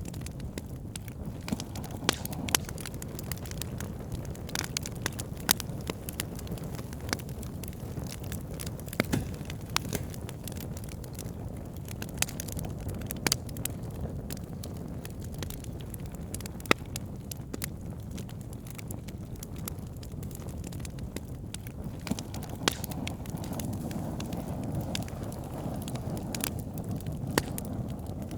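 Wood campfire burning: a steady low rumble of flames with frequent irregular crackles and pops and a few louder snaps.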